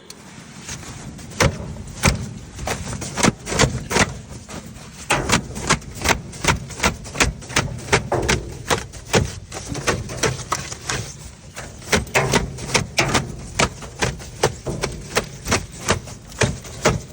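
A long, irregular run of sharp knocks and clatters, often two or three a second, over a steady low rumble.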